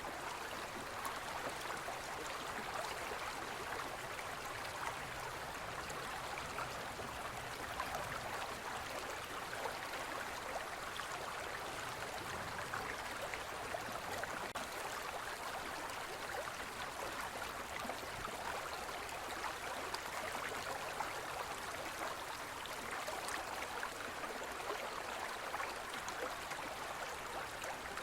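Forest river flowing over rocks: a steady rushing and babbling of water, with small splashes flickering through it.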